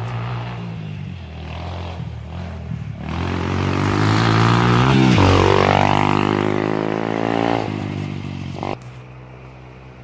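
A 125cc single-cylinder four-stroke dirt bike riding past: its engine gets louder to a peak about five seconds in, the pitch rising and then falling as it goes by, and cuts off sharply near the end, leaving a quieter engine running further off.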